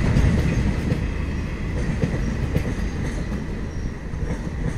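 Empty BOSTHSM open freight wagons rolling past on the rails, their wheels rumbling with repeated clattering clicks, fading gradually as the tail of the train goes by.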